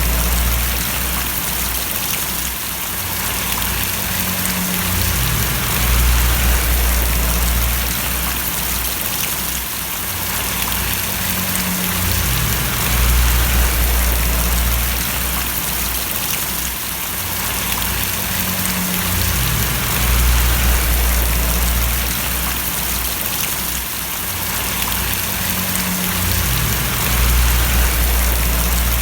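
Steady rain falling, an even hiss of many drops, with a low rumble underneath that swells and fades about every seven seconds.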